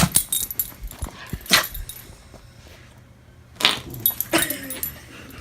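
A dog giving a few short barks and yips a second or two apart, the last one near the end falling in pitch.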